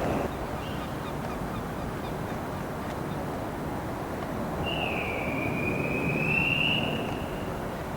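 Train running through a station with steady rolling noise, and a single high-pitched squeal of about three seconds beginning about five seconds in, dipping slightly and rising again before it fades.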